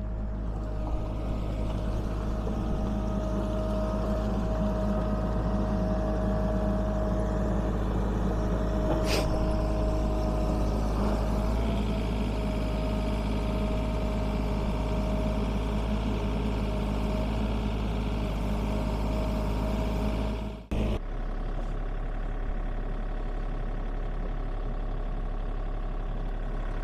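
Sany 35U mini excavator's diesel engine idling steadily, with a steady hum and a single click about a third of the way in. Near the end it drops out for a moment and comes back with a slightly different tone.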